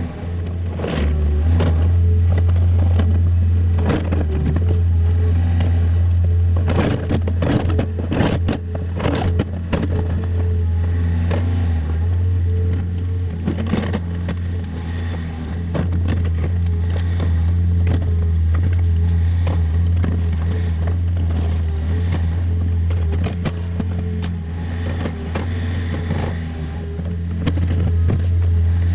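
Takeuchi TB153FR mini excavator's diesel engine running steadily under work, with the bucket scraping and crunching through soil and stone. The scraping is busiest about a quarter of the way in.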